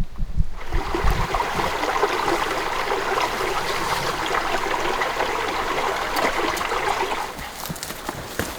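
Small clear stream babbling and trickling over stones, starting about half a second in and fading near the end. A few low thumps in the first second.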